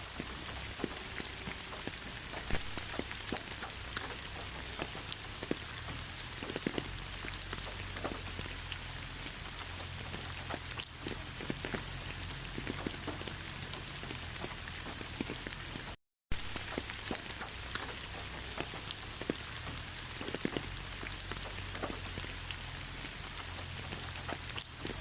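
Steady rain falling, with many individual drops pattering close by. The sound cuts out completely for a split second about two-thirds of the way through.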